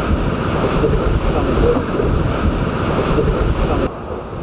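Strong storm wind buffeting the microphone: a loud, rough low rumble that eases somewhat near the end.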